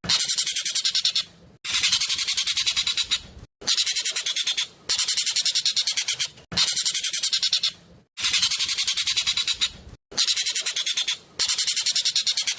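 Ekek keling (jovin) bird calling loudly in long rattling trills of rapid, evenly spaced notes, about a dozen a second. The trills come in phrases of one and a half to three seconds, broken by short pauses.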